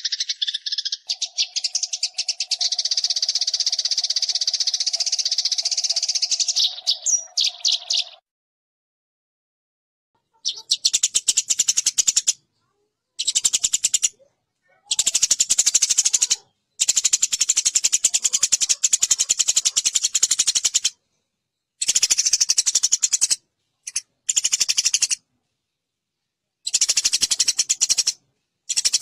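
Eurasian tree sparrows giving the fast, harsh chattering calls of sparrows fighting, in bursts of one to four seconds broken by short silences. A steady low tone runs under the chatter for the first several seconds, then everything stops for about two seconds.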